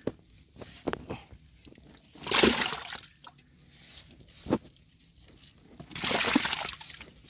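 Rustling and crackling of leaves and twigs as a bird's nest is pulled from the vegetation by hand: two longer bursts, with a few short snaps and clicks between them.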